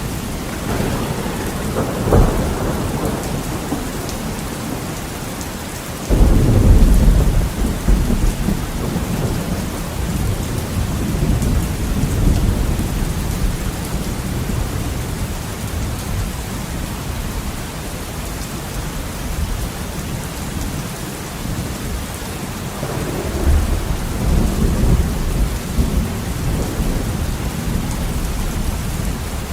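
Heavy rain falling steadily against a window, with rolling thunder: a sharp crack about two seconds in, a loud rumble breaking suddenly about six seconds in and dying away over several seconds, and another rumble near the end.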